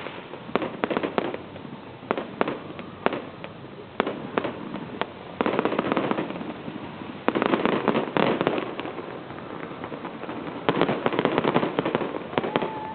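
Fireworks going off: a rapid run of bangs and pops, with several dense bursts of crackling, about five, seven and eleven seconds in.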